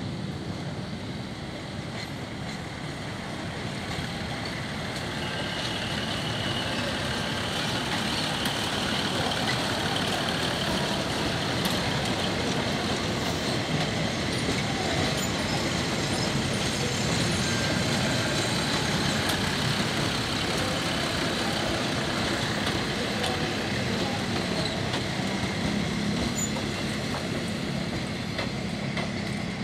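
Diesel train running through a station yard: steady engine and rolling noise that grows louder over the first several seconds, then holds steady, with a faint high squeal for a few seconds.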